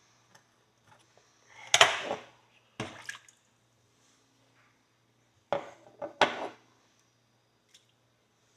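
Knife tip scraping packed dirt out of the groove of a steel horseshoe: four short scrapes of metal on metal, the first the longest.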